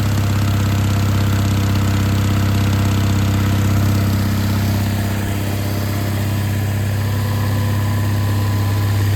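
Old Onan generator's engine running steadily just after a cold start, warming up with a constant low hum.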